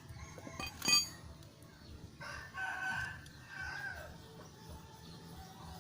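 A rooster crowing once for about two seconds, starting a little past the two-second mark. About a second in, a single sharp clank that rings briefly, like metal struck, is the loudest sound.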